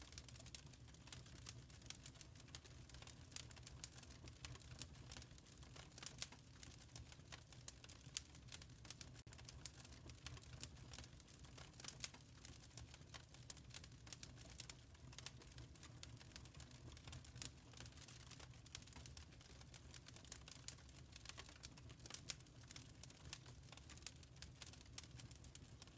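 Faint crackling of a wood fire in a fireplace: a dense, irregular run of small snaps and pops over a low, steady rumble.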